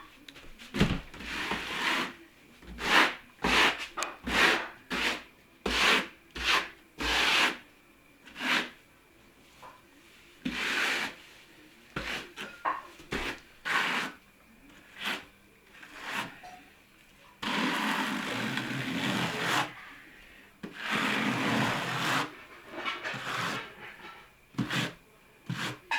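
A spatula scraping plaster filler over reinforcing mesh on a fireplace: a run of quick short strokes, about two a second, followed by a few longer drawn-out scrapes in the second half.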